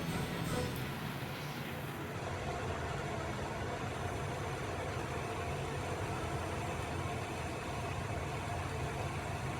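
Background music fades out over the first two seconds, leaving a steady low rumble of a running engine or machine.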